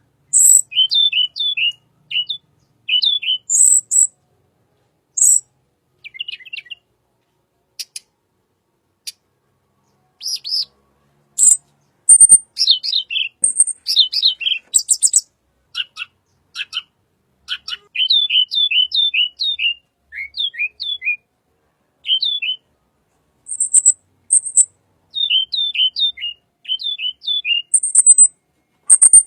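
Tledekan bird calling: short, high, rising chirps in quick runs of three to six, broken by sharp, very high ticks. The notes thin out to a few scattered ones about a third of the way in, then the runs resume.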